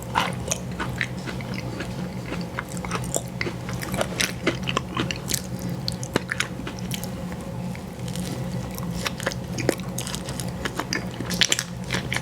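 Close-miked eating of an ice cream sandwich: continuous chewing and biting with many short, sharp mouth clicks, over a steady low hum.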